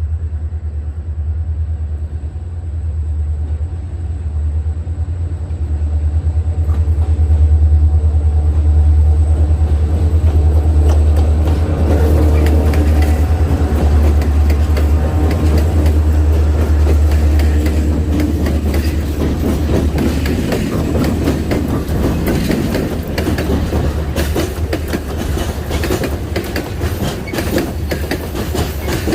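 Train passing: a locomotive's low, steady engine rumble, then from about twelve seconds in the wagons' wheels clattering over the rail joints, a dense run of clicks that carries on to the end.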